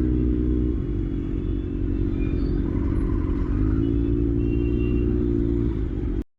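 Kawasaki ZX-6R inline-four motorcycle engine running, its revs rising and holding twice before settling back. The sound cuts off abruptly near the end.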